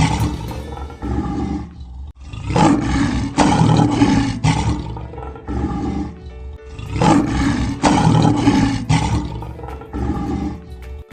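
Lion roaring three times in a row, each roar a long rumbling call of about four seconds, played as a sound effect over light background music.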